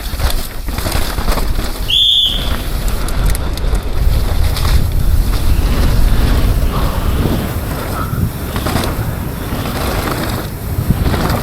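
Full-suspension mountain bike ridden fast downhill: tyres rumbling over rough ground, the bike rattling, and wind buffeting the microphone. A short high squeal about two seconds in.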